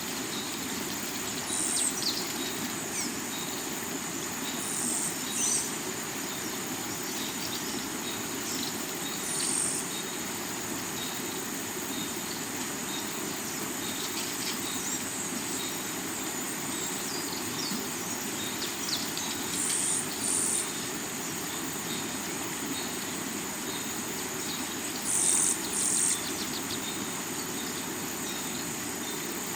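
Steady rushing of river water under a continuous high insect drone of crickets, with short high bird calls cutting in every few seconds, several of them in quick pairs.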